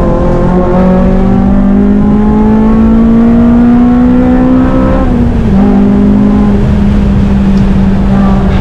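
FN2 Honda Civic Type R's engine running hard on track, its pitch rising steadily under acceleration for about four seconds, then dropping slightly about five seconds in and holding steady.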